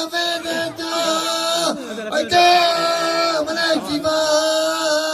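A male folk singer's voice holding long, steady notes, with brief sliding turns between them.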